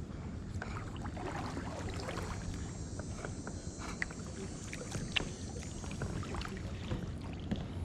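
Kayak being paddled: small splashes and drips of water off the paddle blades, with scattered light ticks over a steady low rumble.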